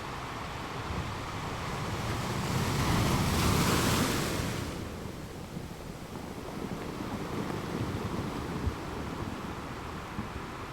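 Ocean waves on a shore: one wave swells up and breaks about three to four seconds in, then a steady wash of surf with a smaller surge later.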